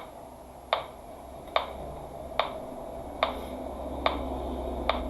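Metronome ticking steadily, six even clicks a little more than one a second, over a faint low hum.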